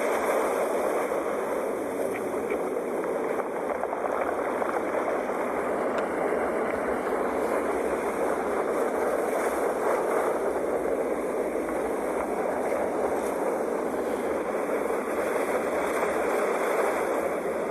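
Sea waves washing in a continuous, steady rush of surf.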